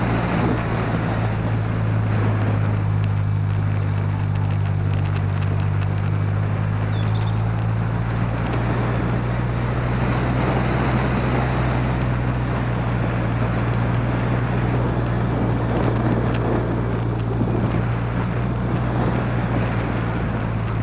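Toyota Celica VVT-i 140's 1.8-litre four-cylinder engine running at a steady pitch as the car drives along, heard through the car's body along with tyre noise and wind buffeting the microphone.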